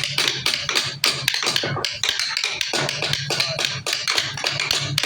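Rapid tapping and knocking on wood, several sharp strokes a second, over a steady low hum.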